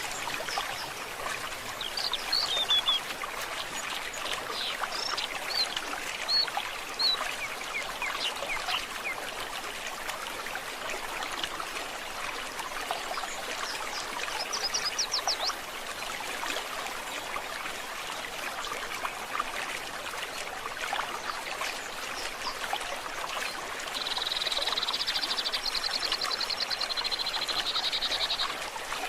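Forest stream flowing steadily, with birds chirping in short high calls early on and a brief quick trill about halfway. Near the end a loud, high, rapidly pulsing trill runs for about four seconds and is the loudest sound.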